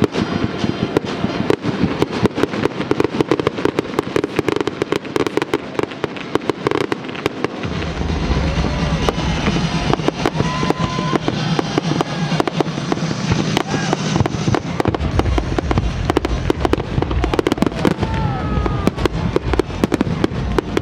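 Fireworks display: a dense, continuous run of bangs and crackles, with deeper booms filling in from about eight seconds in and again from about fifteen seconds in.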